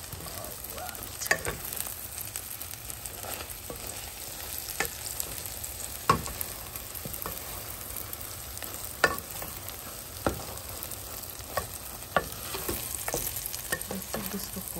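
Egg, spinach and dried shrimp frying in a nonstick pan with a steady sizzle, while a wooden spoon stirs and scrapes through them, knocking against the pan every second or two.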